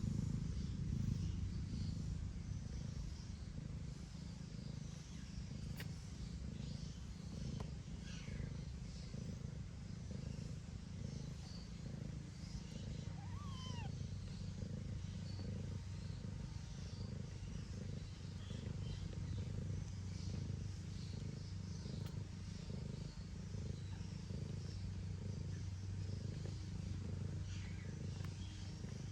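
Steady cat purring as newborn kittens nurse, a continuous low, fast-pulsing rumble, with a few faint high squeaks now and then.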